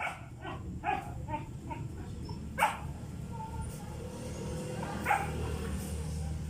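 A dog barking: a quick run of short barks in the first two seconds, then two louder single barks.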